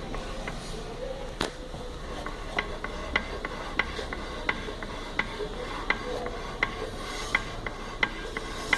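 Short metallic clicks from inside a Jeep wheel hub as the wheel is rocked back and forth by hand, one about every 0.7 seconds, with a sharper knock about a second and a half in. Something is knocking inside despite all-new wheel bearings and freshly adjusted trunnions.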